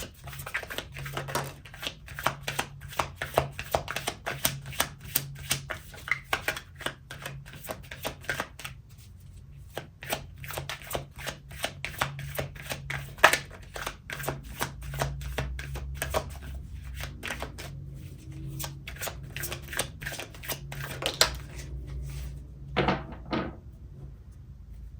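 Tarot cards being shuffled by hand: a dense run of quick card clicks and slaps that thins out after about ten seconds, with a few louder knocks near the end.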